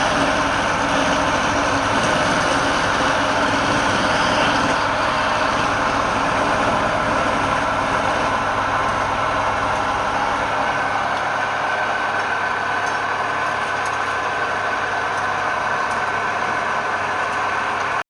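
Wood lathe running steadily, a loud machine drone with a hum. Its low rumble thins out about ten seconds in.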